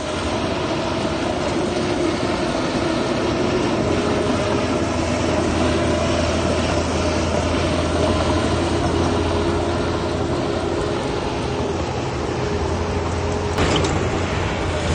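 Heavy diesel engine of earth-moving machinery running steadily under load, with one brief sharp clank about three-quarters of a second before the end.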